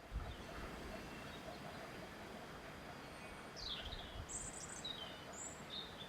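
Wind blowing as a steady hiss, with low gusts rumbling on the microphone. A small bird chirps several times in the second half, one call a quick falling sweep.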